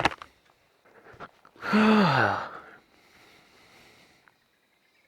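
A man's long, breathy sigh, falling steadily in pitch, about two seconds in.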